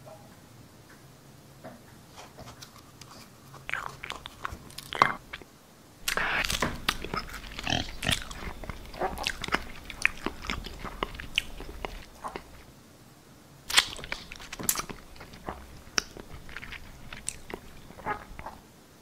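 Close-up crunching and chewing, as of food being bitten and munched: a few scattered clicks at first, then a run of dense crunching from about six seconds in that stops about twelve seconds in, and a second run starting near fourteen seconds.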